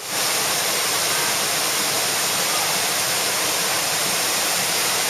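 Whitewater rapid rushing steadily: a dense, even roar of churning river water.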